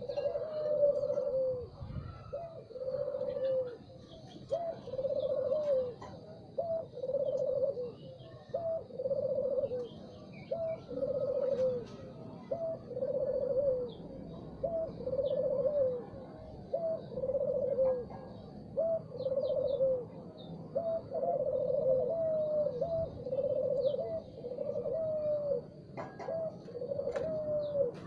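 Spotted dove (tekukur) cooing over and over: a short rising note followed by a longer rolling coo, repeated about every two seconds. Faint chirps of small birds sound higher up.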